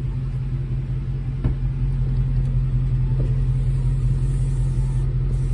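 Car engine running with a steady low rumble, heard from inside the cabin, with a single click about one and a half seconds in.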